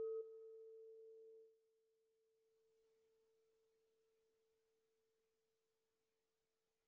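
The ringing tone of a struck meditation bell dying away, fading to near silence about a second and a half in.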